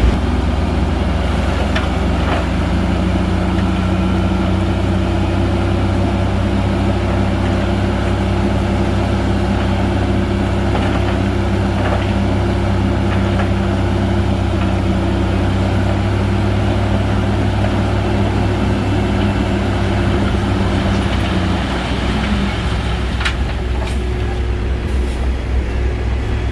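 Heavy bulldozer's diesel engine running steadily with a constant low drone; its note shifts slightly about three-quarters of the way through.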